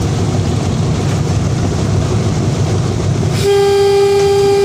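Train running with a steady low rumble; about three and a half seconds in, a train horn starts one long, steady note.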